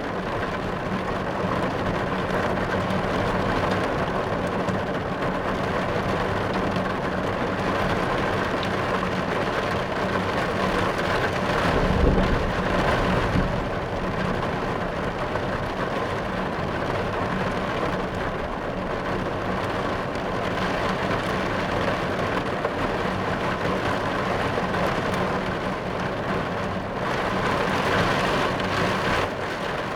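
Steady rain falling on a car, heard from inside the cabin, with a low rumble of thunder about twelve seconds in.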